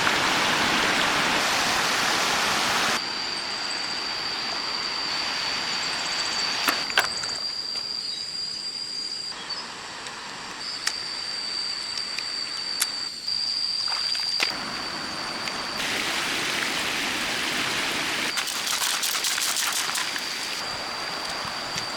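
Running river water: a loud, even rush for the first three seconds, then quieter flowing water with a few sharp clicks and a steady high-pitched tone through much of the rest. The sound changes abruptly several times, as at cuts between shots.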